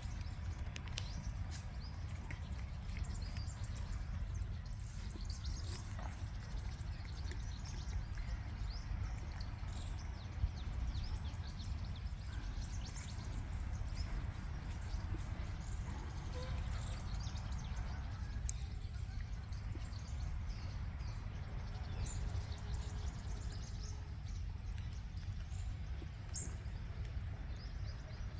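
Outdoor ambience: a steady low rumble with faint scattered chirps above it, and a single sharp knock about ten seconds in.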